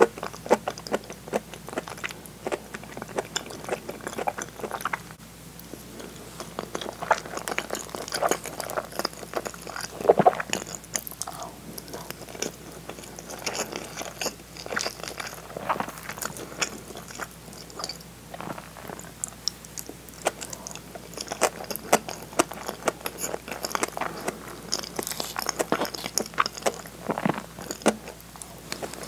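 Close-miked chewing and mouth sounds of a person eating hamburg steak and rice: a quick, irregular run of small clicks and smacks.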